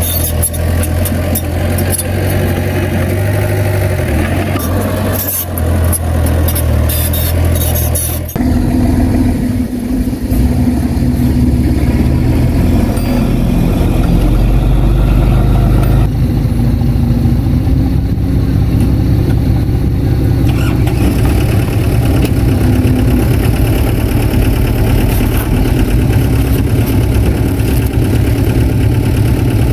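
Heavy diesel engine of earthmoving machinery running under load, with sharp clicking and clatter over the first eight seconds. It changes abruptly to a steadier, deeper engine sound about eight seconds in.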